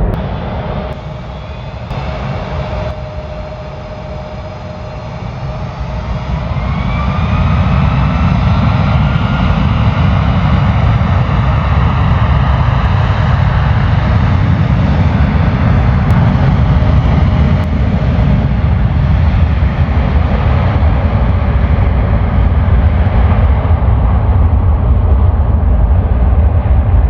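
Jet airliner's engines, growing louder about six seconds in with a rising whine, then a loud, steady rumble.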